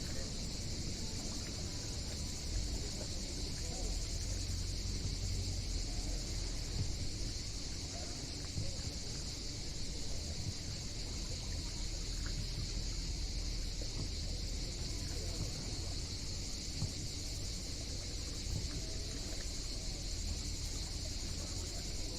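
Summer seaside outdoor ambience: a steady high-pitched drone over a low rumble, with faint voices.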